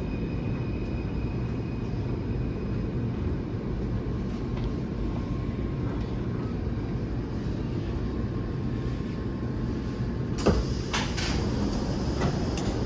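Taipei Metro train's steady low rumble at the station, then about ten seconds in a sharp clunk and a few clatters of the sliding doors opening.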